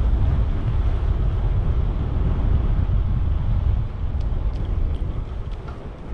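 Wind buffeting the microphone of a camera on a moving bicycle: a steady low rumble, with a few faint ticks in the second half.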